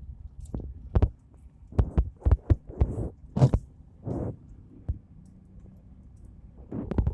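Irregular low thumps and knocks, clustered in the first half and once more near the end, over a faint steady low rumble inside a vehicle driving on a snow-covered road.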